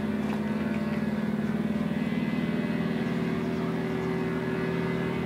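An engine running steadily, a constant even-pitched drone.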